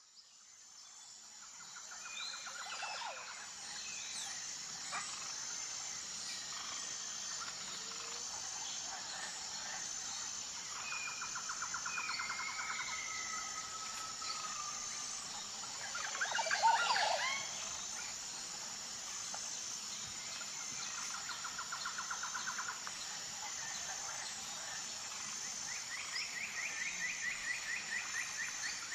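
Birds calling outdoors: several short fast trills come and go, with a few whistled glides and one louder sweeping call about halfway through, over a steady high-pitched buzz. The sound fades in at the start.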